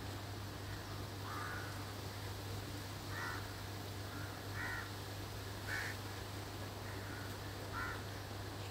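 A bird calling five times in short calls, a second or two apart, over a steady low hum.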